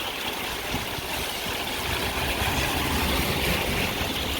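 Street traffic on a rain-wet road: a steady hiss with a vehicle engine rumbling underneath, growing louder from about a second in.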